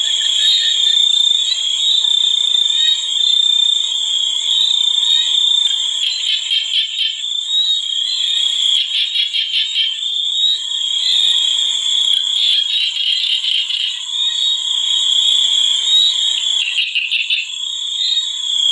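A chorus of frogs calling: a continuous high-pitched trilling, with stretches of rapid pulsed calls coming and going.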